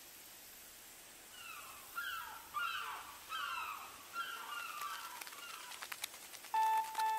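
A bird calling: a run of short, falling calls, about one or two a second, over a faint outdoor hiss. Near the end a run of electronic beeps starts.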